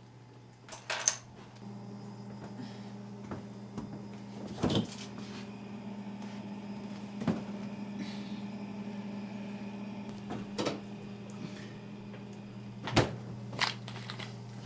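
Scattered knocks and clicks, like doors or objects being handled, over a steady low electrical hum that strengthens about two seconds in.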